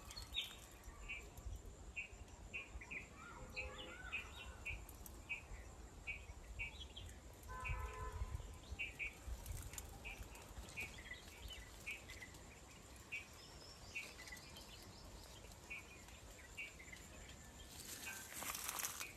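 A small bird chirping over and over, short high chirps at about two a second, faint against a low outdoor rumble.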